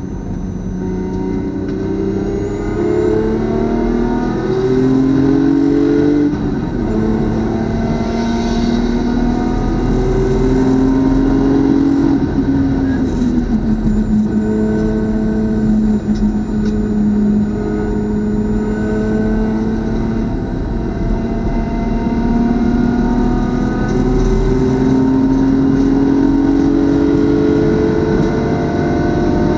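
BMW club race car's engine heard onboard at speed: revs climb in several rising sweeps, each dropping back at a gear change, with long stretches held at steady revs in between.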